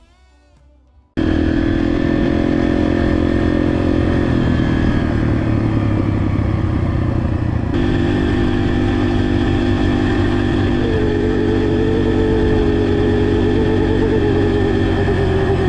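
Yamaha TT-R125 dirt bike's single-cylinder four-stroke engine running. It cuts in abruptly about a second in, and its note shifts a few times.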